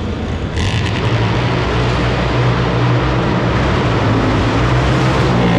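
Triumph 1200 adventure bike's engine revved hard and held high, loud and steady, as it is taken up on the rev limiter for a sprint launch; the pitch edges up near the end.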